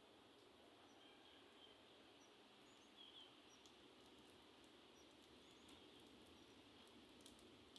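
Faint steady hiss of rain, with a few brief high chirps of a bird and scattered light ticks.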